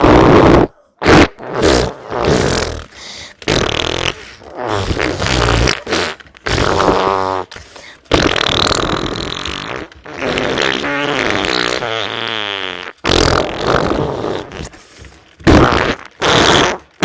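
A run of loud, wet fart and diarrhea sounds, one after another, with two longer sputtering ones around the middle.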